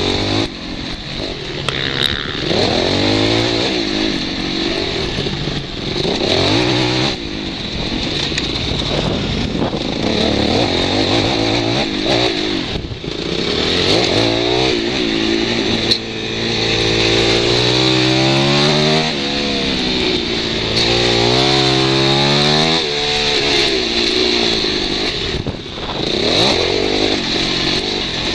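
Supermoto motorcycle engine heard from on board, revving up and falling back again and again as the rider accelerates and shuts off through a dirt section, with a few long climbing revs near the middle.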